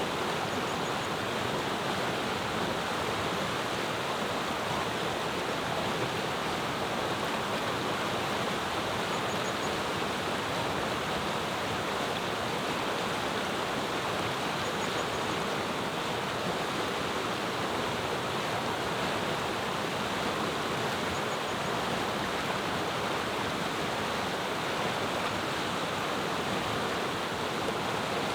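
Steady rushing of a clear mountain river, with a faint short high bird chirp that comes a few times, several seconds apart.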